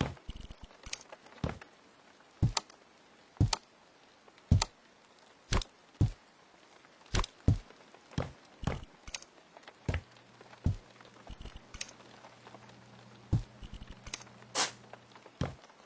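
A series of sharp knocks or taps, roughly one a second and sometimes in quick pairs, with a low steady hum joining in for a few seconds in the second half.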